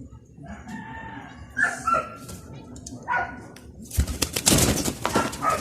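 Birds calling a few times with short pitched cries, then a loud rustling burst about four seconds in.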